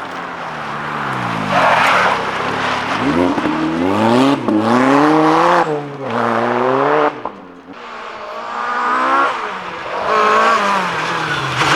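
A rally car's engine revving hard, its pitch climbing and dropping again and again through gear changes, briefly lifting off about two-thirds through before accelerating again.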